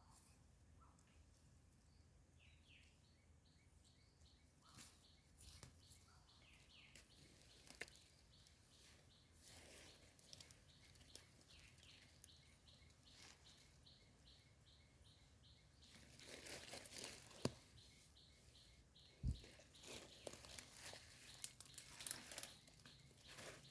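Faint crunching and rustling of leaf litter and mushroom stems being handled and cut, growing busier and louder in the last third with a few sharp clicks, while a rapid high chirp repeats faintly for much of the time.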